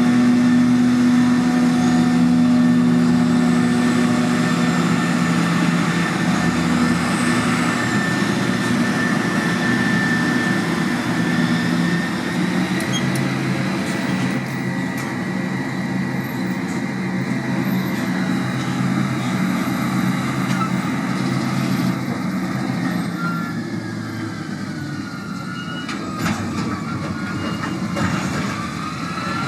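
Large diesel engine of heavy farm machinery running steadily, with a faint high whine above it; the engine note eases off a little about halfway through.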